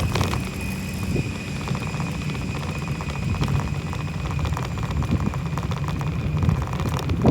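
Lawn mower engine running steadily, heard over a low rumble of wind on the microphone.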